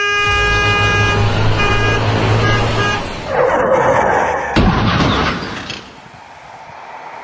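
A vehicle horn blaring in long blasts over a low engine rumble, then a rushing noise, a single sharp crack and a softer steady hiss.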